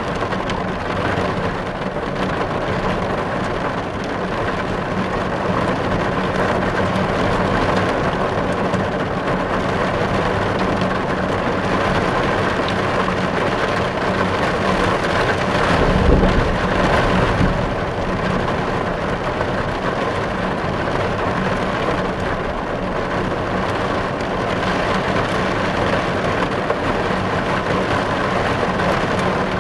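Heavy rain drumming steadily on a car's glass and body, heard from inside the cabin. About halfway through there is a brief, low, louder swell.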